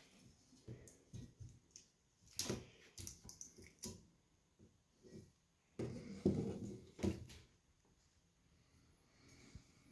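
Intermittent handling noises: short knocks and rustles of something being picked up and moved, with a cluster about two and a half seconds in and a louder one about six seconds in.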